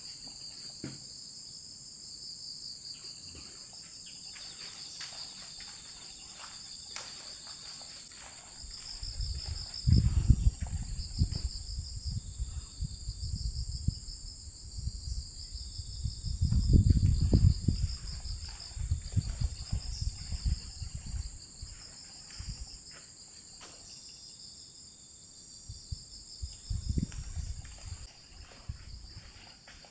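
Crickets and other autumn insects chirring steadily in a high, pulsing chorus. Low rumbling bursts break in three times, about ten seconds in, in the middle and near the end, louder than the insects.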